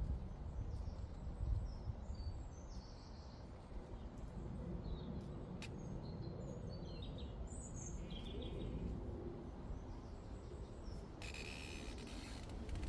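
Meadow ambience: a steady low rumble of breeze on the microphone, with short bird chirps scattered through the first two-thirds. About eleven seconds in, a denser high-pitched hiss with a steady tone comes in.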